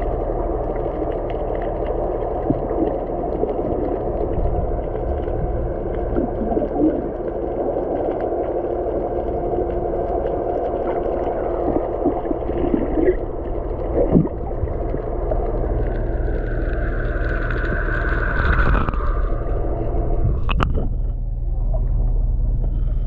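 A boat's engine running steadily, with a constant low hum and drone and some water noise.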